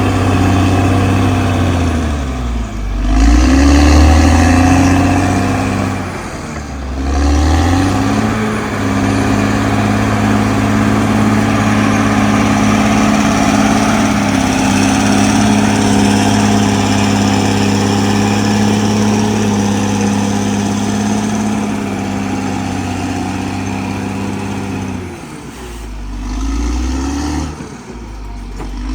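Caterpillar D6R XL bulldozer's diesel engine running steadily. Its pitch dips and climbs back about three seconds in, again near seven seconds, and for a longer stretch near the end.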